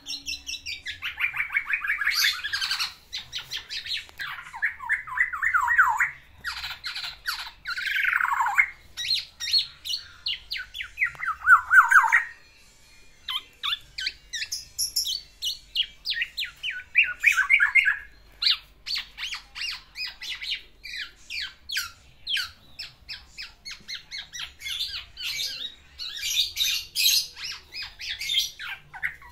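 Male black-naped oriole singing a long courtship song toward a female: a fast, near-unbroken run of harsh chattering notes and downward-sweeping whistles, with mimicked calls of other birds worked in. It breaks off briefly about twelve seconds in, then carries on.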